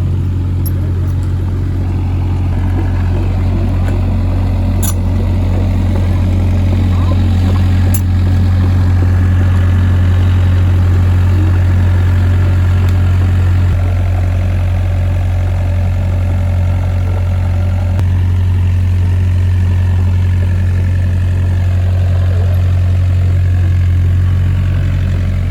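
Excavator's diesel engine running steadily with a loud, constant low drone.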